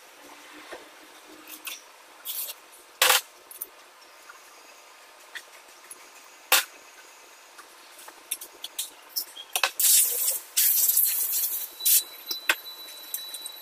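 Handling of metal engine parts and tools: a few sharp metallic clicks and knocks with smaller ticks between them, then a hissing spray, like compressed air or an aerosol, for about two seconds near the end.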